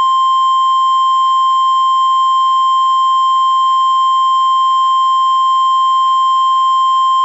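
NOAA Weather Radio 1050 Hz warning alarm tone: one steady, loud tone held without a break. It is the alert that signals a severe-weather watch or warning broadcast is about to follow, here a Tornado Watch.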